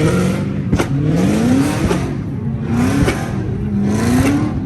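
A car engine revved hard several times, about four rising revs in a row, with a few sharp cracks between them.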